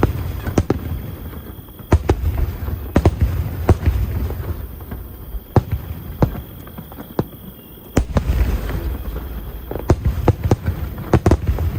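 Aerial fireworks bursting: an irregular series of sharp bangs, some single and some in quick clusters, with deeper rumbling booms after the heavier bursts about two, eight and ten seconds in.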